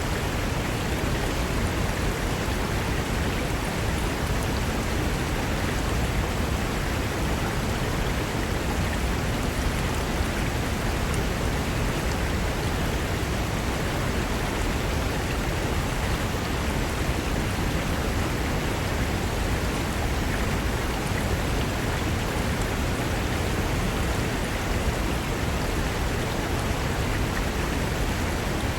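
Fast mountain river rushing over rocks: a steady, even roar of water with no breaks.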